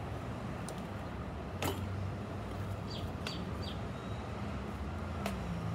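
A steady low background hum, with a small bird chirping three quick falling notes about three seconds in. A few sharp clicks come through, the loudest about a second and a half in.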